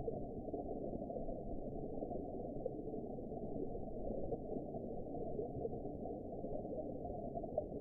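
Steady underwater ambience: a muffled, even wash of low water noise with faint irregular crackles, with nothing above a low cut-off.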